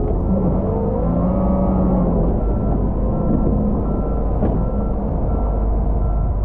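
Volvo L110 wheel loader's diesel engine running steadily under load, with its reversing alarm beeping about once every 0.7 seconds from about two and a half seconds in.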